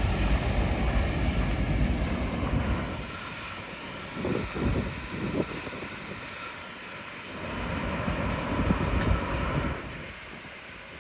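Rumble of a freight train's last cars rolling past on the rails, loud at first and then fading away after a few seconds as the train recedes. Two softer swells of noise follow before it settles to a low background.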